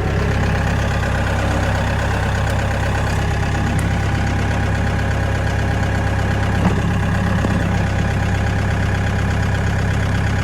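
Loader tractor's engine running steadily under light load while towing a trailer, with a faint knock about two-thirds of the way through.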